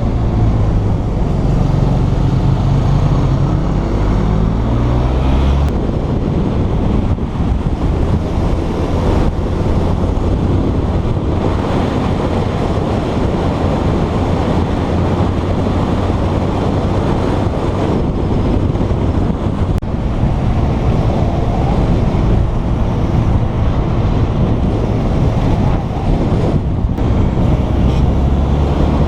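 Motorcycle engine running while riding, buried in heavy wind buffeting on the microphone; the engine note shifts abruptly about five seconds in.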